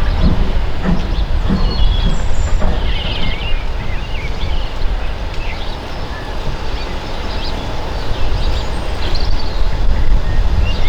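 A steam-hauled train running past with a heavy, steady rumble and a few low beats about two a second in the first few seconds.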